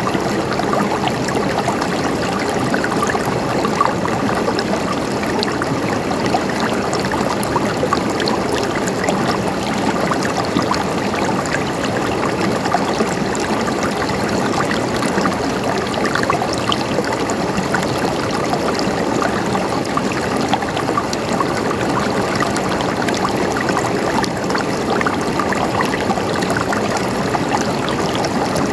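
Flowing water gurgling steadily, a continuous babble of small splashes and trickles.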